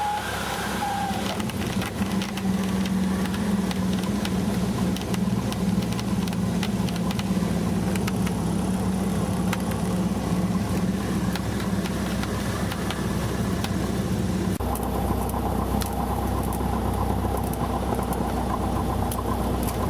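Light aircraft's piston engine and propeller running steadily, heard from inside the cabin. A high steady tone stops about a second in. About fifteen seconds in, the engine note changes to a deeper, lower rumble.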